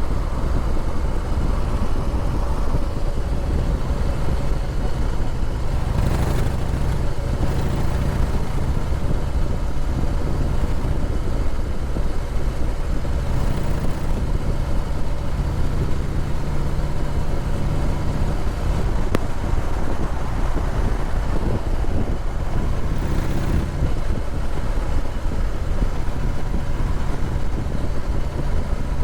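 Harley-Davidson Heritage Softail Classic's V-twin engine running steadily.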